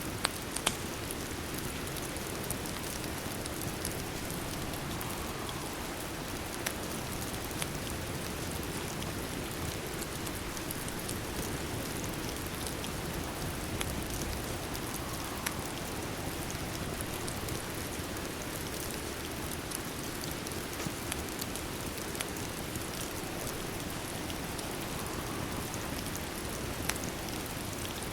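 Steady rain with a crackling fireplace mixed in: an even hiss of rain broken by scattered sharp pops.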